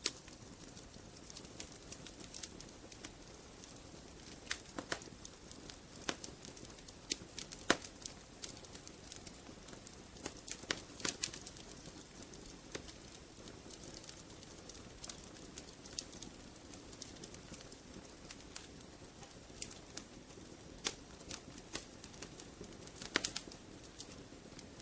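Wood fire crackling in a fireplace: irregular sharp pops and snaps over a soft steady rush of flame.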